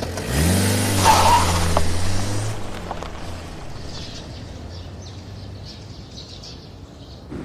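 A car engine revs up and the car pulls away, its sound fading over the next few seconds. Birds chirp faintly after it has gone.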